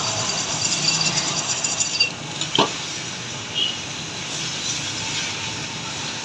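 Metal lathe running, with a gritty cutting noise that eases off about two seconds in and a single sharp clank a little later.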